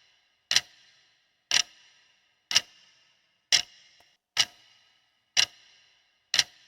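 Countdown clock-ticking sound effect: a steady tick about once a second, each tick sharp with a brief metallic ring, seven ticks in all.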